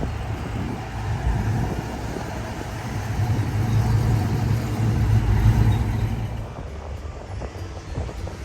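Motor vehicle engine running with a low hum, growing louder for the first half and fading near the end as it passes by.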